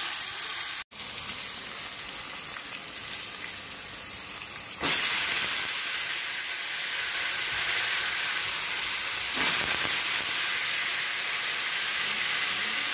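Oil sizzling in a steel kadai, first with curry leaves and spices, then with brinjal pieces and green chillies, a steady hissing sizzle. It cuts out for a moment just under a second in and jumps louder at about five seconds.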